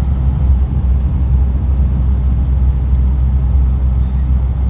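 A classic car's engine and road rumble, heard from inside the cabin while cruising at steady speed. It is a continuous deep drone with no gear changes or revving.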